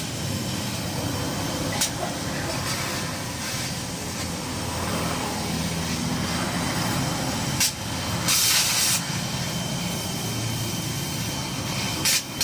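Toyota Avanza engine running steadily through an HKS racing exhaust, with a short burst of hissing about eight seconds in and a few sharp clicks.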